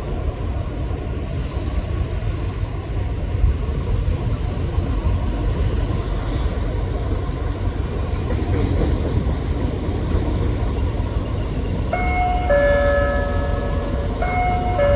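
Alstom diesel locomotive's Pielstick engine running with a steady deep rumble. About twelve seconds in, a two-note station chime plays twice, the signal that a platform announcement is about to start.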